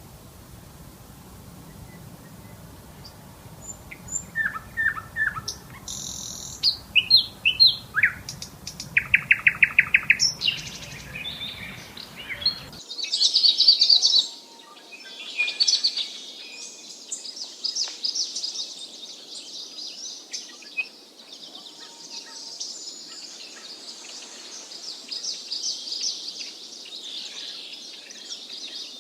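Wild birds calling: several separate calls with rapid trilled runs of repeated notes and short whistles. About 13 seconds in, this switches abruptly to a dense, high-pitched chorus of many birds chirping together without a break.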